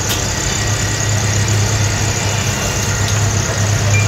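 Steady low hum and rumbling running noise inside a moving train carriage.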